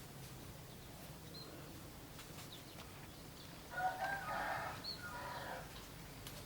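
A rooster crows once, a single drawn-out call of about two seconds starting a little past the middle. A couple of brief, faint high chirps from small birds come before and during it.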